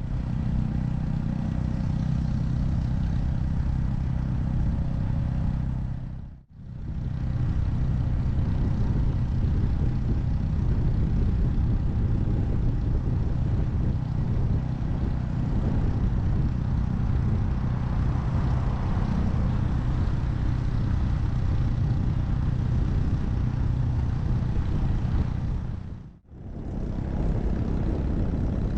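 Honda Monkey 125's single-cylinder engine running steadily under way. The sound drops out briefly twice.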